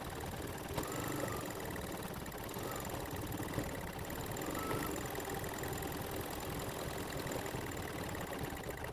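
Embroidery machine stitching out a satin stitch, running steadily.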